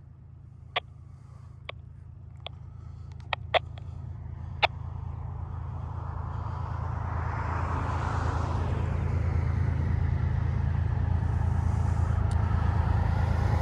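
Low, steady diesel locomotive rumble from an approaching train, growing louder throughout. A passing road vehicle swells up and fades about halfway through. Several sharp clicks come in the first few seconds.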